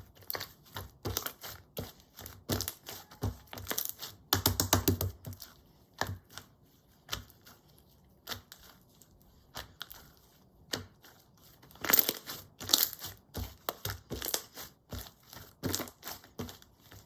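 Clear slime being kneaded and stretched by hand as pigment is worked in: a run of sticky clicks and pops. They come thickest about four seconds in and again about twelve seconds in, with a sparser stretch between.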